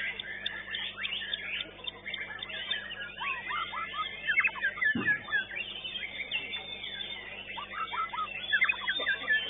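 White-rumped shama (murai batu) singing a fast, dense run of sweeping whistles and chirps, with a dull thump about five seconds in.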